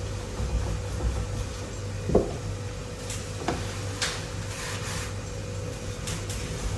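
A few scattered knocks and clicks over a steady low hum, the loudest knock about two seconds in.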